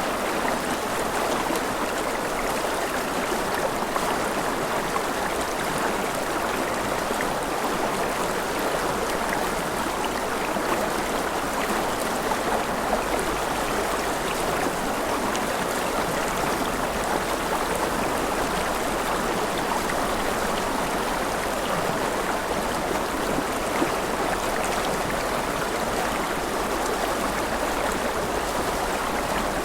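Mountain river flowing over rapids: a steady, even rush of water.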